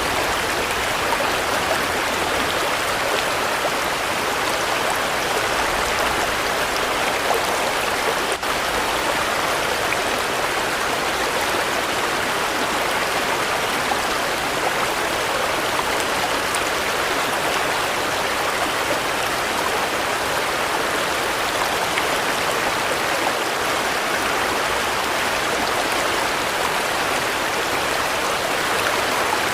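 Steady rain falling, a dense, even hiss of many drops that does not let up.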